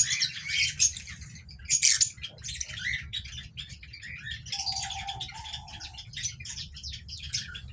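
Lovebirds chirping in a quick, continuous twitter of short high calls, loudest about two seconds in. About midway, two short steady tones sound one after the other.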